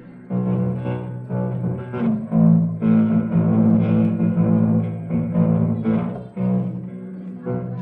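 Electric bass guitar through the PA playing a run of sustained low notes, a new note plucked every second or so, between songs.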